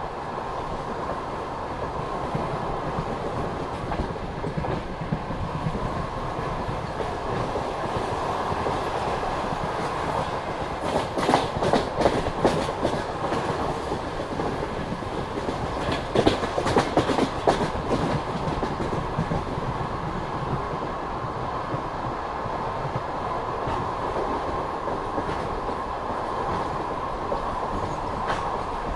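Passenger train rolling along the track, heard from aboard: a steady rumble of wheels on rail, with two bunches of sharp clickety-clack about eleven and sixteen seconds in as the wheels cross rail joints.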